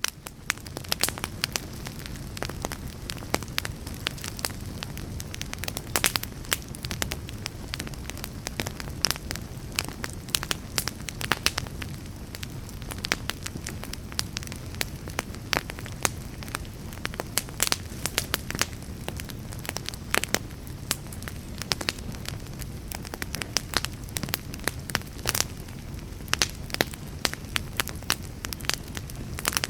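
Wood fire burning, with frequent sharp crackles and pops over a steady low rumble of the flames.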